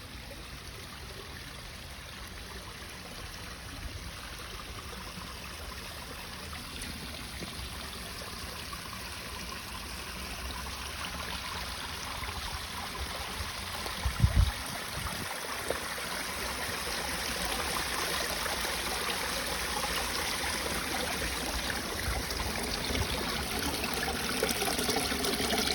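Water running and trickling into a freshly patched concrete pond as it is refilled, growing slowly louder. There is a brief low thump about halfway through.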